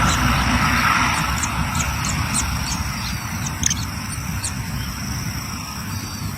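Low rumble of a passing vehicle dying away over the first few seconds, with short, high chirps repeating throughout.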